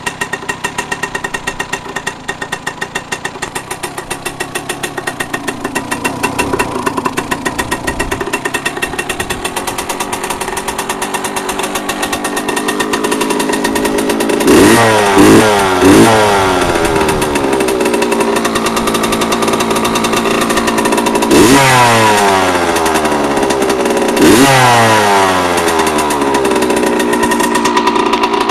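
1984 Yamaha YZ80 two-stroke single-cylinder dirt bike engine idling just after a cold start on the first kick. It is revved sharply three times in quick succession about halfway through and twice more later, each rev falling back to idle.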